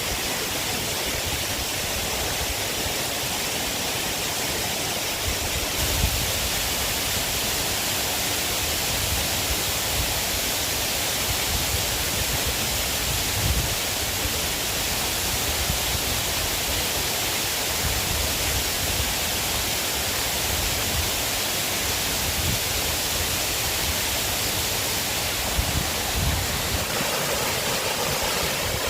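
River water rushing, a steady, even hiss with no pauses, broken by a few soft low thumps.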